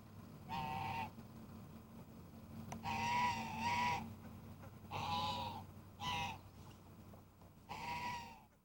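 Bird calls: five loud, pitched, wavering calls, each under a second long and spaced one to three seconds apart, over a low steady hum.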